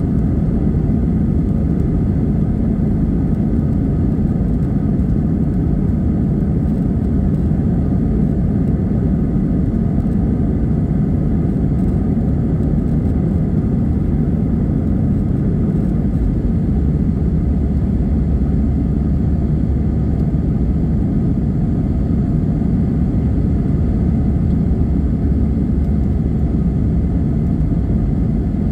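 Airbus A320 airliner: a steady low jet-engine rumble, its deepest part growing heavier a little past halfway through.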